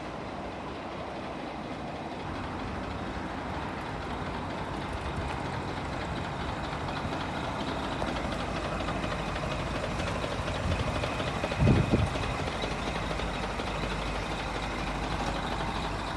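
Scania R420 truck's diesel engine idling steadily, with a short low thump about twelve seconds in.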